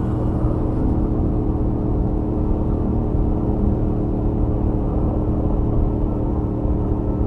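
Stock Royal Enfield Interceptor 650's parallel-twin engine and exhaust, cruising on the highway at a steady engine speed.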